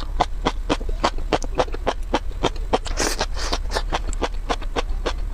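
Seaweed, sea grapes and stringy green strands, chewed close to the microphone: quick crisp crunches and pops, several a second. A short hiss comes about three seconds in.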